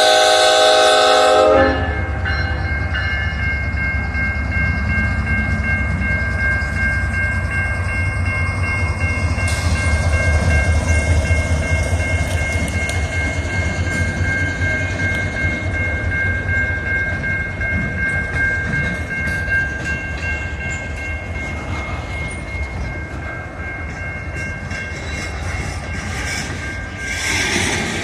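A train horn chord sounds and cuts off about two seconds in. Then the train rolls by with a steady low rumble, some clickety-clack and a thin, steady high-pitched squeal.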